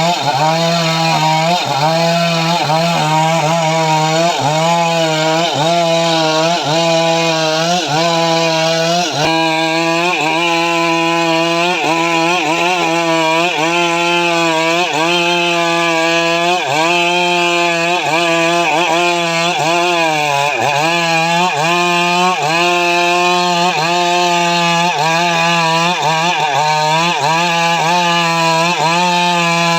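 Stihl MS 382 two-stroke chainsaw running under load while ripping dry mahogany, its engine pitch sagging and recovering about once a second as the chain bites. About nine seconds in, the hissing cutting noise thins out while the engine runs on.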